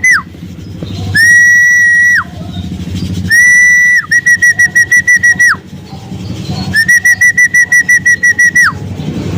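A whistle blown in loud, repeated blasts: a short blip, then two long steady blasts, then blasts broken into rapid trills of about six or seven pulses a second. Each blast ends with a quick drop in pitch.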